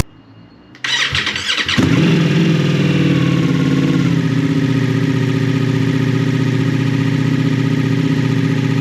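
Ducati Multistrada V4S's V4 engine being started. The starter cranks for about a second, then the engine catches and settles into a steady idle.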